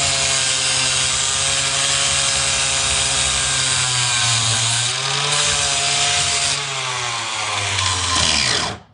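Angle grinder running against the cast-iron tractor mount, its motor pitch sagging under load about four seconds in, then winding down and stopping near the end.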